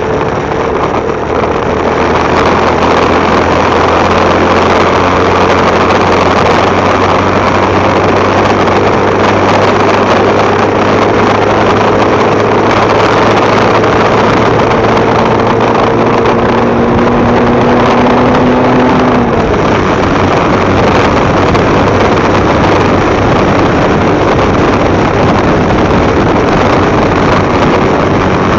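Motorcycle engine running on the move, under heavy wind noise on the microphone. The engine note climbs slowly, then drops about two-thirds of the way through.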